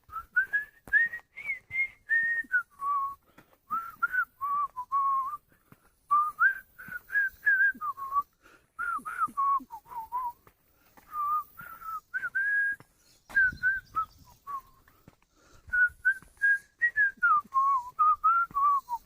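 A man whistling a folk melody in short, clear notes, the tune rising and falling between phrases.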